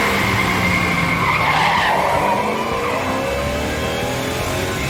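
Cartoon car-chase sound effects: tyres screeching in the first half, then an engine revving up with rising pitch.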